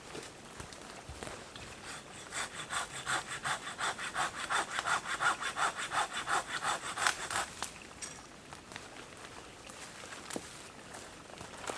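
A saw cutting through a piece of firewood by hand, in fast, even back-and-forth strokes, about four or five a second. It starts about two seconds in, runs for about five seconds and stops.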